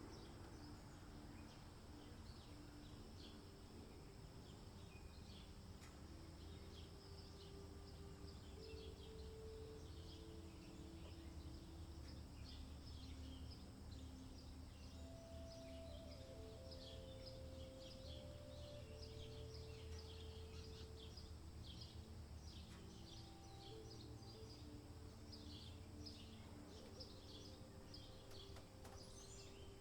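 Faint outdoor ambience: small birds chirping over and over above a low steady rumble.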